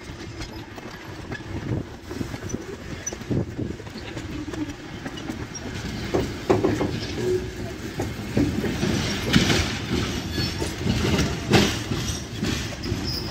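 Museum passenger coaches rolling slowly over yard track, their wheels clattering and knocking over the rail joints and points. The knocks grow louder and heavier in the second half as the derailment begins.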